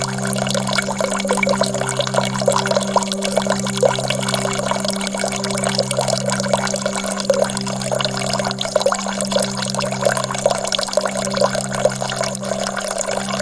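Running water, trickling and splashing steadily, over a steady low drone.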